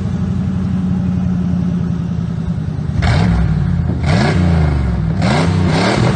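1997 Ford F350's V8 running through a straight-piped exhaust with the muffler cut off, loud and idling steadily, then revved in four quick blips from about three seconds in.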